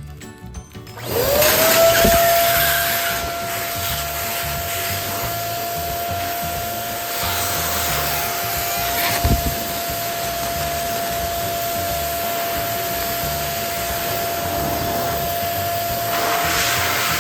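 Electric balloon pump switching on about a second in, its motor spinning up and then running with a steady whine and rush of air as a balloon inflates.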